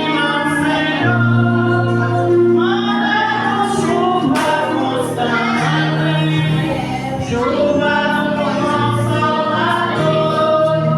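A woman singing a Portuguese-language gospel song with accompaniment, holding long notes over sustained low bass notes.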